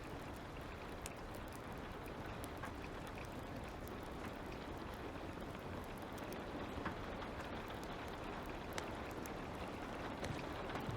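Light rain falling as a steady hiss, with a crackling fire's scattered small pops and snaps over it.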